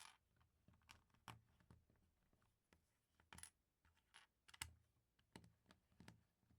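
Faint clicking and clattering of plastic LEGO pieces being handled. A sharp clack comes right at the start, then about a dozen scattered, irregular clicks and taps follow.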